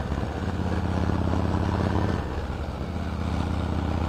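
Harley-Davidson V-twin engine running under way. Its note eases off a little about two seconds in, then picks up again.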